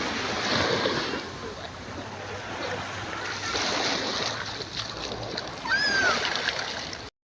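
Sea water splashing and small waves washing in the shallows, with a child's short call about six seconds in; the sound cuts off abruptly near the end.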